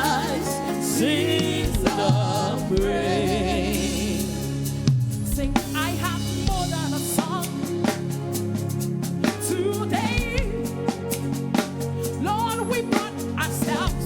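Live gospel praise-and-worship music: a sung melody with vibrato over a band with steady bass notes and drum kit hits.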